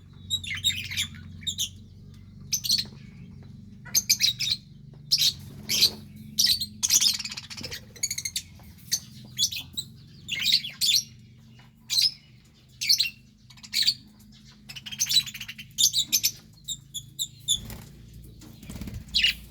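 Budgerigars chirping and chattering: many quick, high-pitched chirps and short squawks overlapping at irregular intervals.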